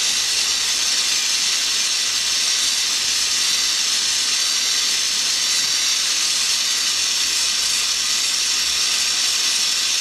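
Oxy-propane torch flame hissing steadily as it heats a brass joint for silver soldering.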